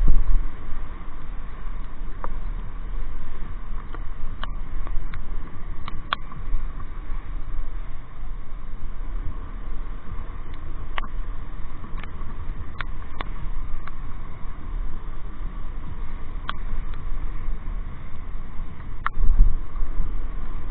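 Motorcycle on the move heard from the rider's microphone: a steady low rumble of wind and engine, with scattered sharp ticks hitting the microphone every second or so.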